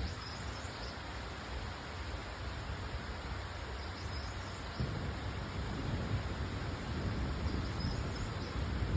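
Steady hiss of falling rain, with a low rumble that grows louder from about five seconds in.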